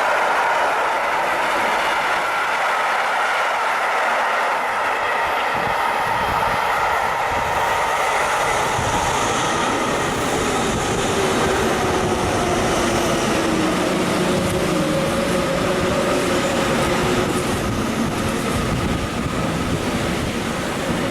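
A train running past at close range: a loud, steady rush of wheels on rail with whining tones over it, growing fuller in the low end after several seconds.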